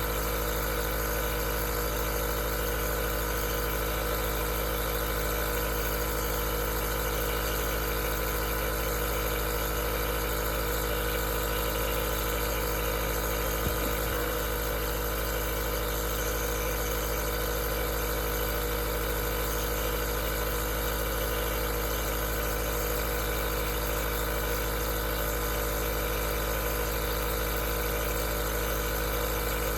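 Aerosol nebulizer running: a steady, unchanging motor hum with a hiss over it. One faint tick about halfway through.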